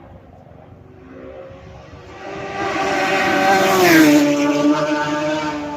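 A superbike racing motorcycle passing at high speed, its engine note rising in loudness as it approaches, dropping sharply in pitch as it goes by about four seconds in, then fading away.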